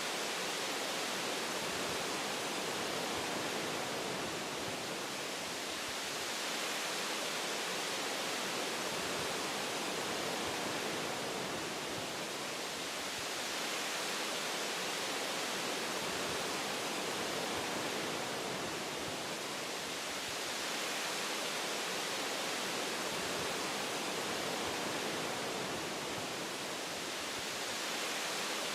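Wind rushing through forest tree branches, a steady hiss that swells and eases gently every few seconds.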